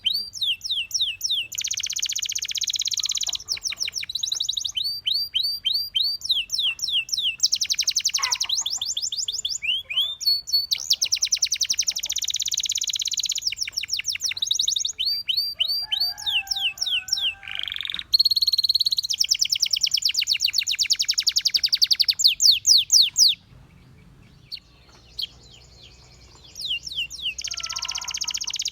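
Domestic canary singing: runs of quick repeated chirps alternating with fast, dense trills, broken by a pause of about three seconds near the end before the song starts again.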